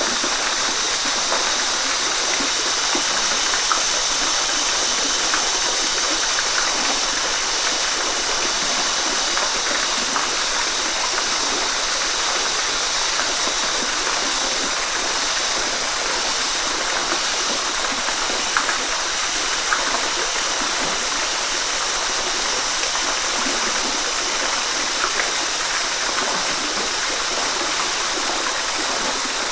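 Waterfall and stream water rushing steadily, a constant hiss with small splashes and drips standing out here and there.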